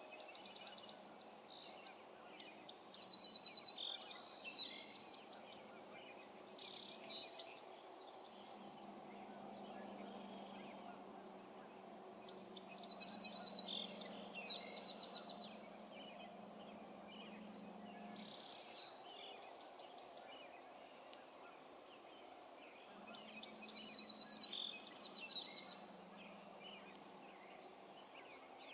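A bird singing outdoors in the early morning: the same short, high song with a rapid opening run of notes, three times, about ten seconds apart. A faint steady low hum comes and goes underneath.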